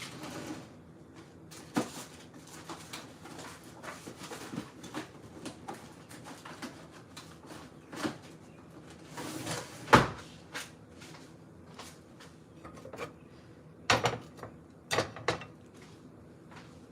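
Scattered knocks and clicks of dishes, drawers and cupboard doors being handled while food is warmed back up, with a sharp knock about ten seconds in and a quick run of knocks near the end.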